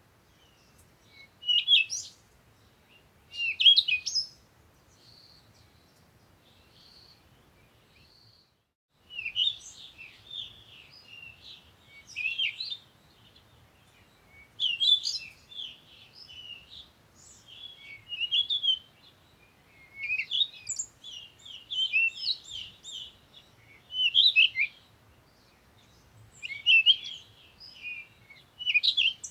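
Songbirds chirping in short, quick bursts of sweeping notes, several calls overlapping at times. There is a quieter spell with only a faint thin note, and a brief dead gap, about a third of the way in, before the chirping picks up again.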